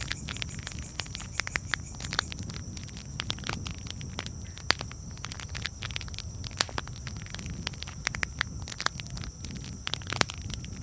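Campfire crackling: irregular sharp pops and snaps over a low steady rumble, with louder pops about five seconds in and near the end.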